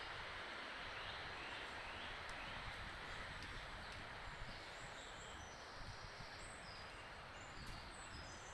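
Spruce forest ambience: a steady breeze rustling through ferns and trees, with small songbirds calling over it. A few short falling chirps come in the first couple of seconds, then a run of thin, very high notes through the second half.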